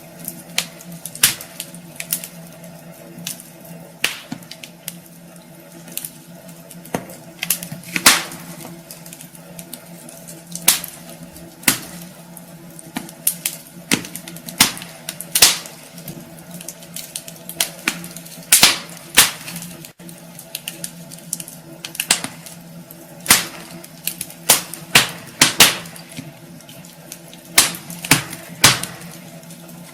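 Wood fire in a fireplace crackling, with irregular sharp snaps and pops of varying loudness over a steady low hiss.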